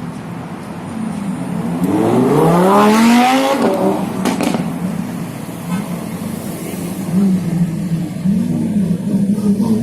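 Sports car engine idling, then revved once in a rising sweep that peaks and falls back to idle, followed by small wavering blips of the throttle.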